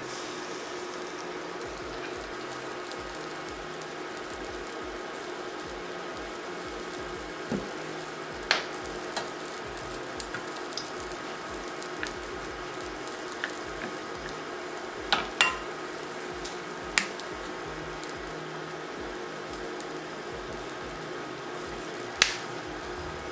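Egg-coated salmon pieces for salmon piccata sizzling steadily in oil in a frying pan, over a faint steady hum. A few sharp taps of chopsticks come through, the loudest near the end.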